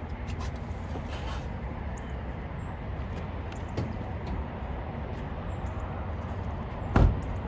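Steady low rumble of the idling Isuzu FTR box truck's diesel engine, with a single loud thump near the end.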